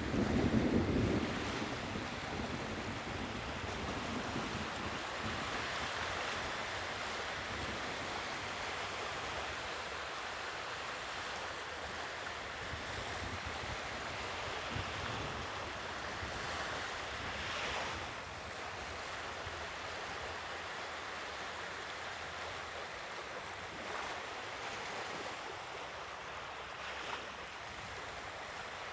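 Sea waves washing onto the shore in a steady, even rush, swelling and easing every several seconds. Wind buffets the microphone with a low rumble about a second in.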